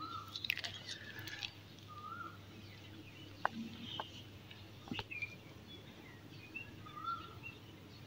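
Faint, scattered bird chirps, with a few sharp clicks near the middle.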